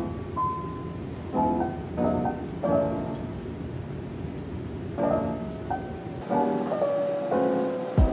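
Background piano music, a slow run of single notes and chords, over a low steady hum that drops away about six seconds in.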